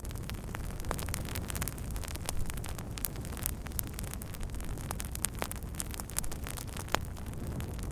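Wood fire crackling: frequent sharp, irregular pops and snaps over a steady low rumble of the burning fire.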